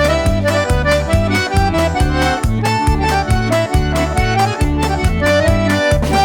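Accordion playing a lively traditional tune: a stepping melody over a steady, even bass-and-chord beat.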